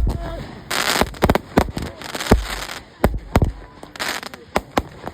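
Fireworks display: a run of sharp bangs from bursting shells at irregular intervals, with crackling after some bursts.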